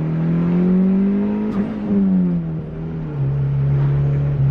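Turbocharged Honda D15B 1.5-litre four-cylinder engine heard from inside the Civic, its pitch rising under acceleration, then dropping at a gear change about a second and a half in and settling to a steady cruise.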